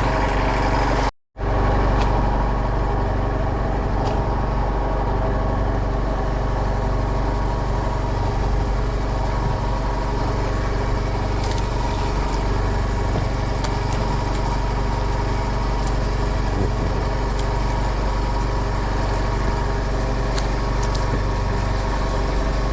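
A fishing boat's engine running steadily at idle or low speed. The sound drops out completely for a fraction of a second about a second in, then resumes unchanged.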